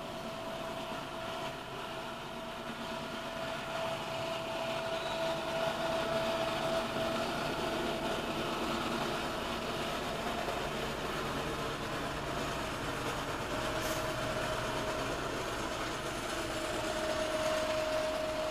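Approaching Norfolk Southern train: the rumble of locomotives and rolling wheels grows louder over the first few seconds and then holds. A steady whine runs over it, drops out briefly in the middle and comes back.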